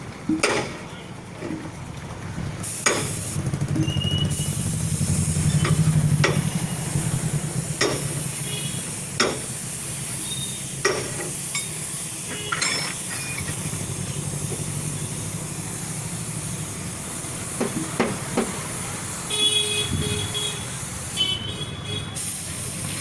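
A steady hiss over a low motor hum, with scattered sharp clicks and knocks; the hiss cuts out near the end.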